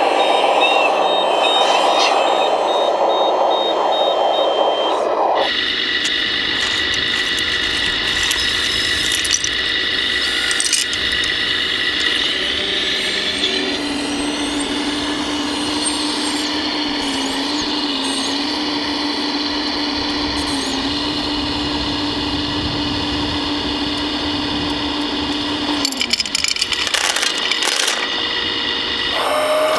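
Steady whine of radio-controlled hydraulic construction models' electric motors and hydraulic pumps, several held tones that shift abruptly three or four times, with a lower pump tone that dips slightly in pitch now and then as it takes load.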